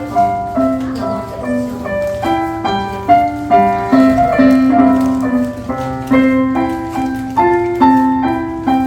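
Solo piano playing a melody over lower held notes, new notes and chords struck about twice a second.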